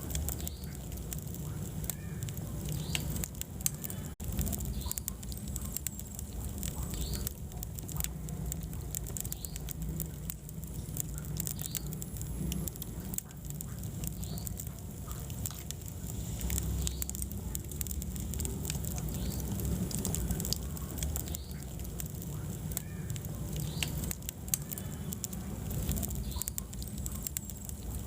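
Wood fire burning in a fireplace: frequent scattered crackles and pops over a steady low rumble of the flames.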